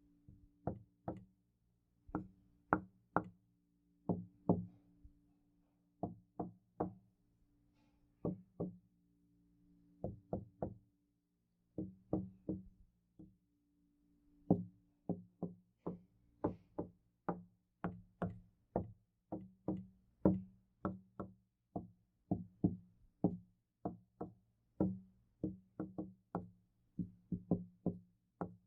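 Knocking on a door: short groups of two or three knocks with pauses between them, then from about halfway a quicker, near-continuous run of knocks, about two to three a second. Each knock leaves a low, hollow ring.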